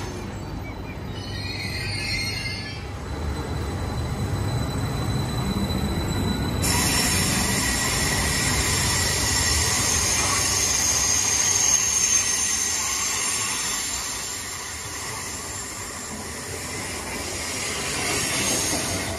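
Electric passenger train moving along the platform: a low rumble of wheels on rails. High squealing tones join abruptly about six and a half seconds in.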